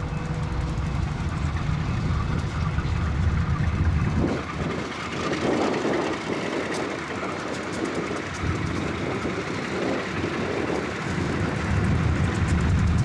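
Slow-moving diesel locomotives running low and steady, their wheels rumbling and clattering over the switch and rail joints from about four seconds in until near the end.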